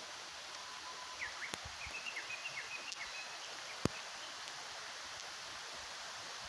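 Small birds chirping in a quick run of short high notes for about two seconds, over a steady hiss. A single sharp click comes a little before the four-second mark.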